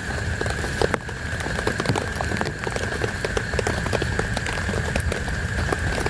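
Heavy rain falling, with many irregular drops ticking on a surface close by, over a steady high-pitched tone.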